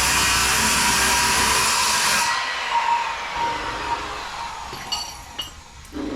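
A power tool runs loudly, then is switched off about two seconds in and winds down with a falling whine. A few light metallic clinks follow.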